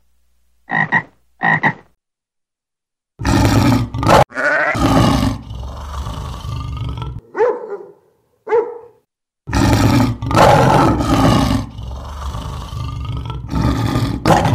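A tree frog croaking twice with short calls, then loud, deep animal calls. About halfway there are two short yelps from a dog, and near the end a lion roaring.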